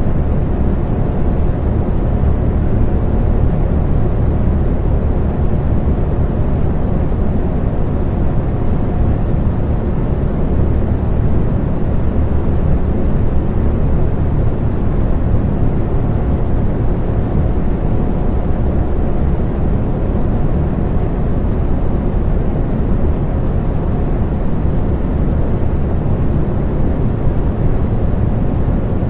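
Electric fan running steadily: an even, low whooshing rush with a faint steady motor hum beneath it.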